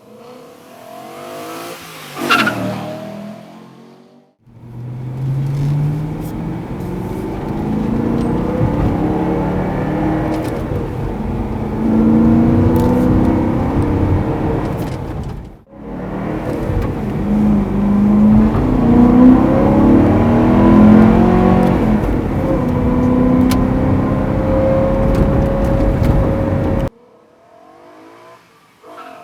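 BMW E92 M3's V8 running through an aftermarket performance exhaust. It starts with a quick pass-by, then two loud runs accelerating hard, the engine pitch climbing and dropping back at each gear change. Both runs cut off suddenly.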